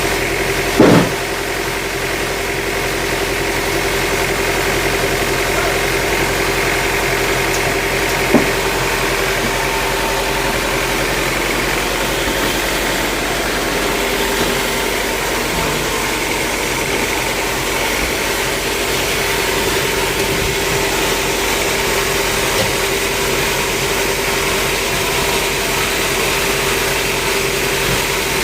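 A machine engine running steadily at an even speed, with a sharp knock about a second in and a smaller one about eight seconds in.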